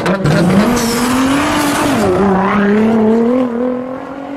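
A car engine accelerating, its pitch climbing, dropping about two seconds in, then climbing again and fading out near the end.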